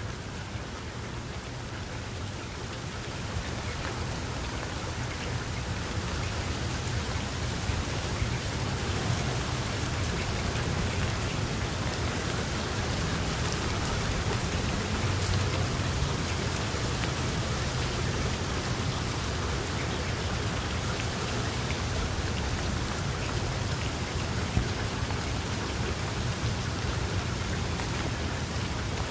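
Steady rain falling, with a low rumble underneath and scattered sharp ticks of drops; the rain swells a little over the first few seconds, then holds steady.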